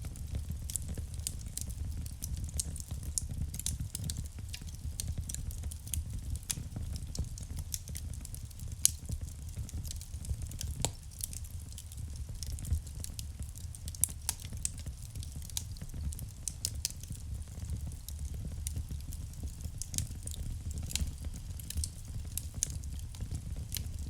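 Wood fire burning in a fireplace: a steady low rumble of flame under irregular sharp crackles and pops, with a few louder pops about 9 and 14 seconds in.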